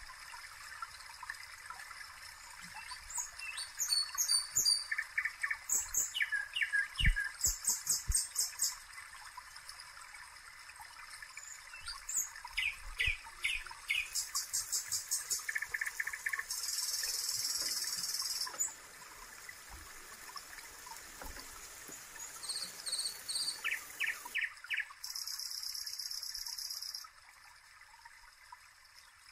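Birds chirping in quick repeated trills over a faint steady trickle of water, with a couple of low thumps about seven seconds in.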